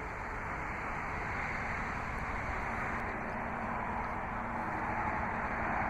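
Steady outdoor background noise of vehicle traffic, an even rush with a faint low hum underneath.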